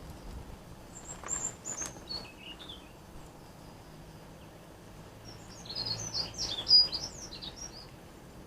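A small songbird singing in high, quick chirping notes: a short phrase about a second in, then a longer, busier burst of song around six seconds in.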